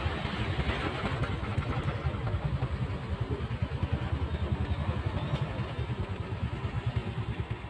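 Motorcycle engine running steadily with a quick, even beat, getting slightly quieter near the end.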